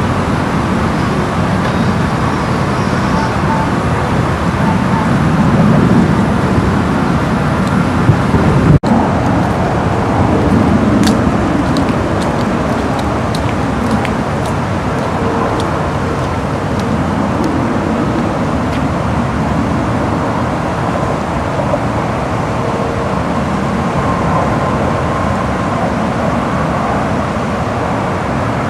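Steady rushing noise of a flooded creek running high and fast, mixed with wind on the microphone. The sound cuts out for an instant about nine seconds in.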